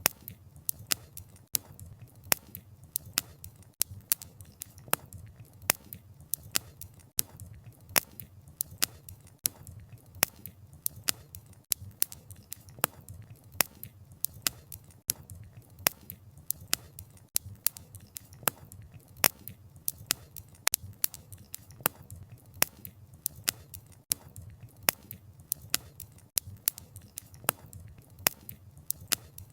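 Wood fire crackling: sharp pops and snaps of burning logs, several a second and irregular, over a low steady rumble of the flames.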